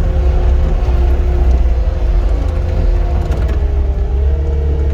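Cat 259 skid steer's diesel engine running under load as the machine travels over rough ground, heard from the cab: a heavy, steady low rumble with a whine whose pitch shifts about four seconds in.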